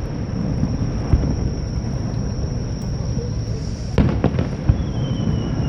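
Fireworks display: sharp bangs of shells bursting about a second in and again about four seconds in, over a continuous low rumble, with a faint falling whistle in the second half.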